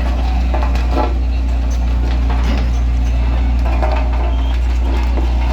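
Large diesel engine running steadily at low revs, a constant deep hum.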